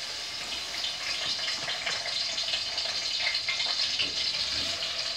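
Chicken thighs frying in hot oil in a pot, a steady crackling sizzle as they brown to form a crust.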